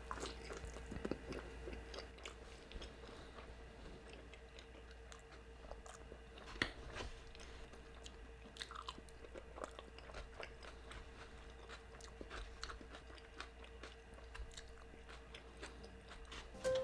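Close-miked chewing and biting of a consommé-soaked birria torta: soft wet smacks and scattered clicks of the mouth, over a faint steady hum.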